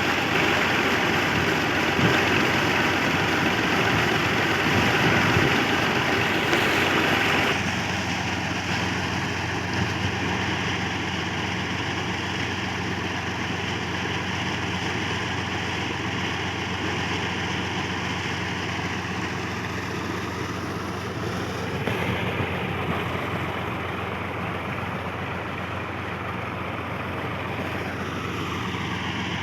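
New Holland Al-Ghazi 65 hp tractor's diesel engine running steadily, driving a tubewell pump through its PTO shaft. About seven seconds in, the sound drops a little and becomes duller, then holds steady.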